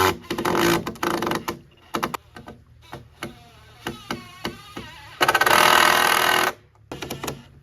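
A power drill/driver drives screws into wood in bursts of rapid, pulsing running. The longest burst lasts just over a second, near the end. Short clicks and knocks fall between the bursts.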